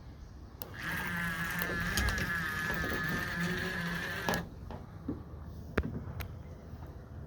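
Radio-controlled boat's small motor running with a high whine that wavers slightly in pitch, starting about a second in and cutting off after about three and a half seconds, followed by a few sharp clicks.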